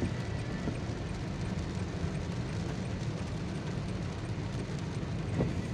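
A vehicle moving along a rain-soaked road: a steady low rumble of engine and tyres, with the hiss of rain over it.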